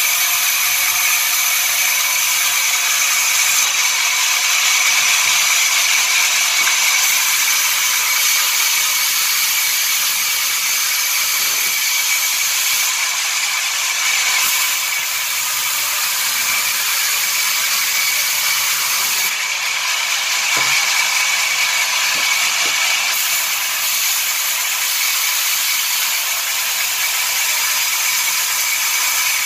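Sawmill saw running steadily, a high, even whine over a dense hiss.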